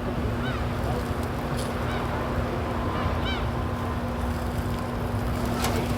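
A few short bird calls over a steady low hum.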